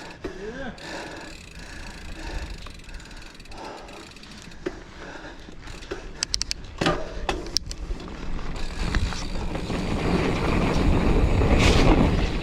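A Giant Fathom mountain bike ridden on a dirt trail: the rear hub ratchets and the bike rattles with sharp clicks about halfway through. Wind and tyre rumble then build, loudest shortly before the end, as the bike drops into a dip.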